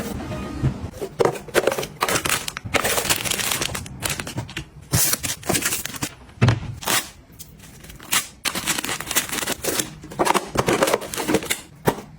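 Objects and packaging being handled by hand: bursts of rustling and crinkling with light clicks and taps, starting and stopping irregularly.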